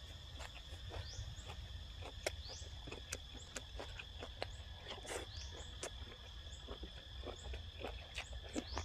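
Close-up chewing and crunching with wet mouth clicks and smacks, a person eating squid salad with raw vegetables. A steady high insect drone runs underneath.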